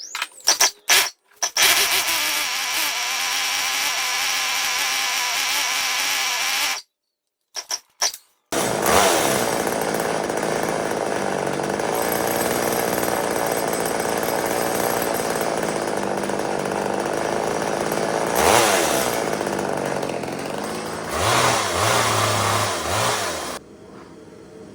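A Craftsman 2.3 cubic inch chainsaw's small two-stroke engine, its carburettor mixture screws freshly set to one and a half turns, firing in a few quick bursts and then running steadily at high speed. It stops briefly, catches again after a couple of short bursts, and runs on, its pitch dipping and rising about three-quarters of the way through before it cuts out near the end.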